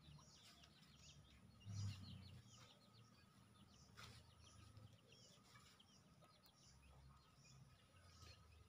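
Quiet outdoor ambience with faint, repeated chirping of small birds and a low background rumble, broken by a single light click about four seconds in.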